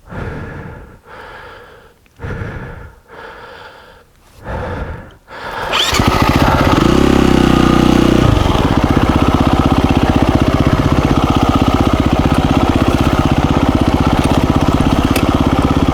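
Heavy breathing in short gasps for the first few seconds. Then, about six seconds in, the KTM 350 EXC-F's single-cylinder four-stroke engine starts, revs briefly and settles into a steady idle.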